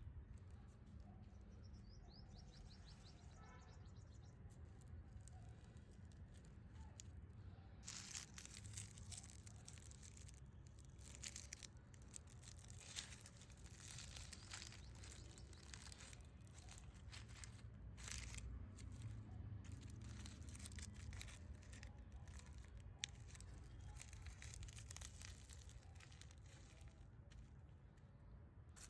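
Faint rustling and crinkling of hands handling material, in short irregular scraping bursts that grow busier partway through, with a brief bird chirp near the start.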